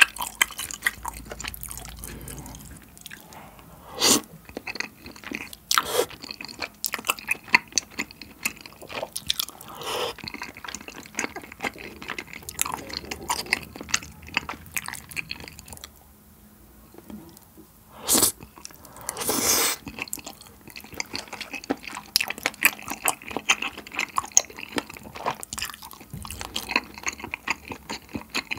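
Close-miked chewing of soft, chewy bunmoja and tteokbokki in a creamy sauce, full of wet mouth clicks and squelches. A few louder bites or slurps stand out, with a short lull about two-thirds of the way in.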